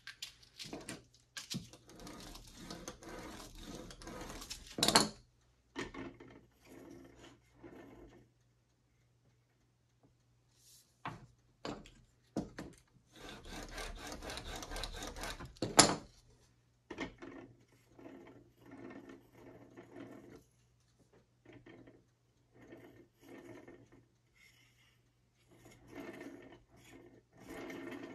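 Wood being rubbed and handled on a workbench: two stretches of scraping rub a few seconds long, each ending in a sharp knock, with scattered short scrapes and taps between.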